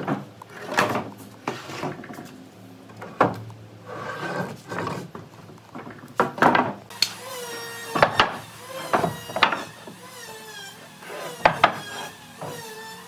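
Wood being handled and struck in a workshop: a series of sharp, separate knocks, with a wavering high-pitched sound running under them through the second half.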